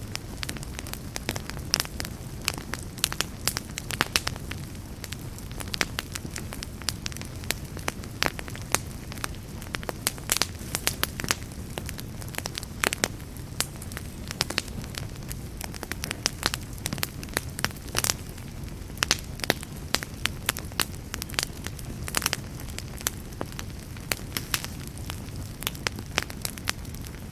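Wood fire crackling: many sharp, irregular pops and snaps over a steady low rumble of flames.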